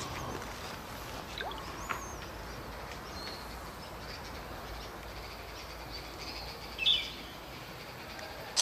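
Birds calling over a steady outdoor background: a few faint high chirps in the first couple of seconds, and one short, louder call about seven seconds in.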